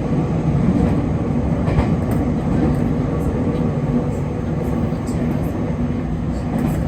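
A JR Kyushu 811 series electric train running at steady speed, heard from inside the car. It makes a continuous rumble of wheels and motors with a steady hum, and a few faint clicks come through.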